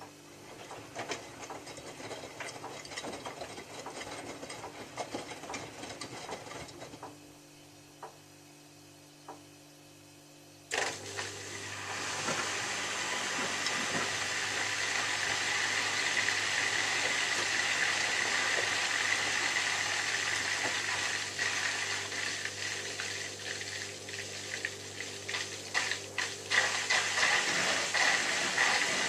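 Miele W3744 washing machine partway through its wash cycle: low working noise with scattered ticks, then about a third of the way in a sudden steady hiss begins as water rushes in through the inlet valve to fill the drum.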